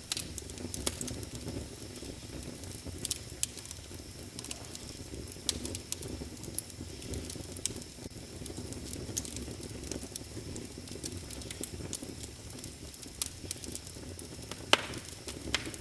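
Wood fire burning in a fireplace: a steady low rumble of flames with irregular crackles and pops, one sharper snap near the end.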